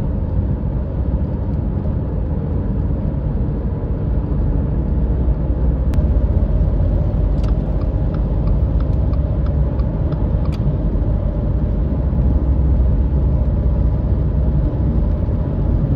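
Car cabin noise while driving at highway speed: tyres and engine give a steady low rumble. A run of faint ticks comes about halfway through.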